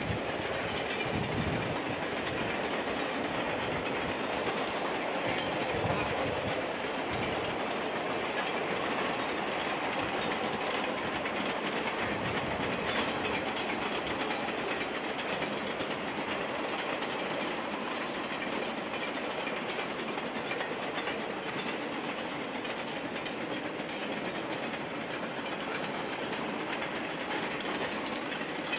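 A long freight train of container cars rolling steadily past, the sound of its wheels on the rails.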